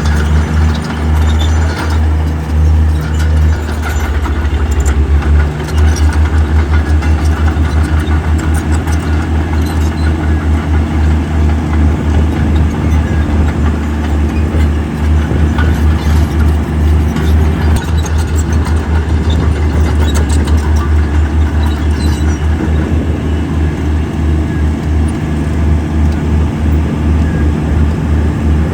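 Heavy construction machine's diesel engine running at work, with a fast, even throb. The throb changes briefly about four to six seconds in, then steadies again.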